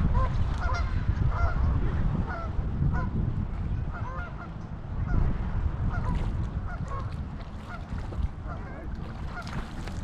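Geese honking, a long string of short calls one after another, over heavy wind rumble on the microphone.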